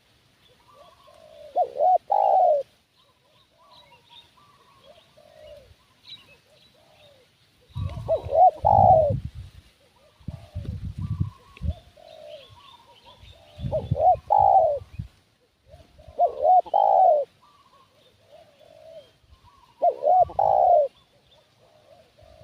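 Spotted doves cooing: short rolling coo phrases repeated every few seconds, loud close ones alternating with softer coos. Faint chirps of small birds sound above them, and some coos in the middle come with deep low thumps.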